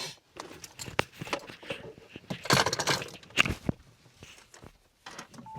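Scattered clicks and short rustling noises of handling.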